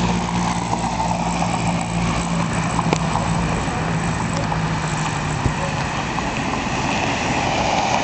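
Steady roadside traffic noise, with a low, even engine hum that stops about five and a half seconds in.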